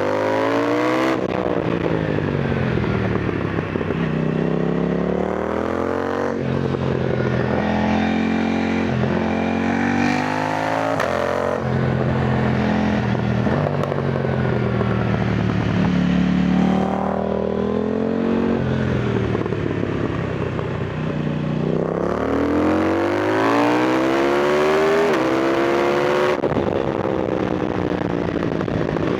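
KTM Duke 990 twin-cylinder engine pulling hard through the gears and easing off on a twisty road. Its pitch rises and falls several times, with steadier cruising stretches in between.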